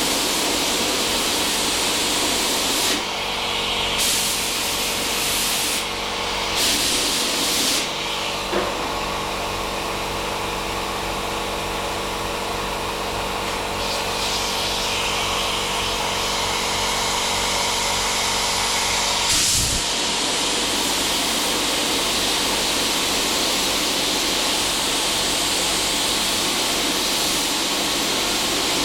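Steady hiss of a gas torch and compressed-air quench used to heat-shrink sheet metal. Short louder air blasts come about four and seven seconds in, and there is one sharp click near twenty seconds.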